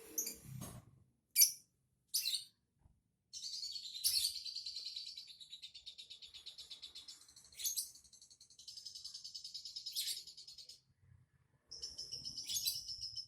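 A songbird singing: a few short sharp chirps, the loudest about a second in, then long spells of rapid high-pitched trilling chatter broken by short pauses and punctuated by sharper notes.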